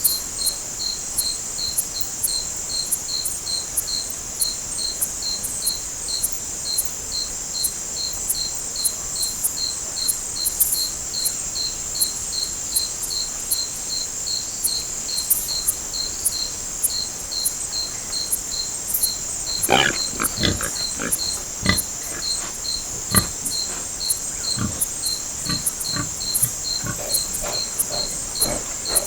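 Night insect chorus: a steady high buzz with a cricket chirping about three times a second. About two-thirds of the way through, irregular short snaps and crackles join in.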